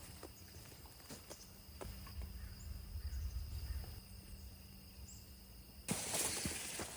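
Insects chirping steadily in the woods, with scattered footsteps and taps from walking the trail. Near the end comes a sudden burst of hiss lasting about a second.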